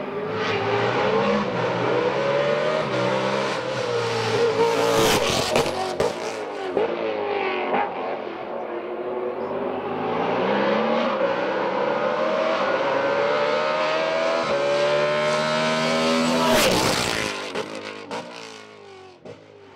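Race car on a hillclimb course at full throttle. Its engine note climbs and drops again and again through gear changes, with a few sharp cracks about five seconds in and again near the end. The sound then fades as the car moves away.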